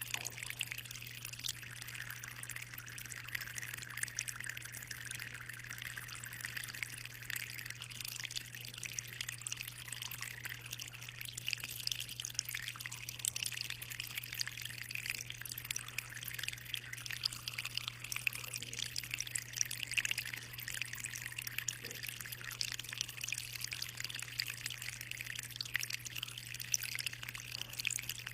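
Aquarium water trickling and splashing steadily, with fine dripping, over a steady low hum.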